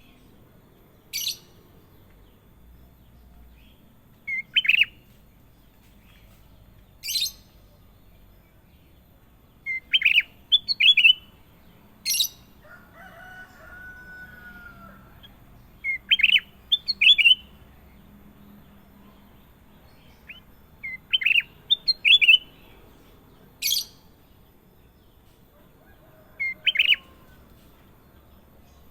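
Kutilang emas bulbul calling: short, clear, falling notes, often in quick pairs or threes, repeated every second or two and mixed with occasional very sharp chips. A fainter wavering whistle comes in briefly about halfway through.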